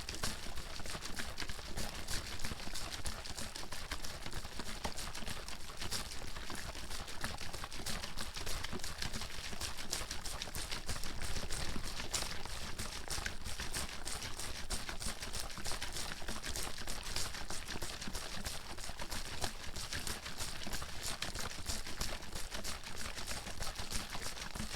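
Water in a bottle being shaken hard and without pause, a rapid, steady run of sloshing and splashing against the bottle's walls.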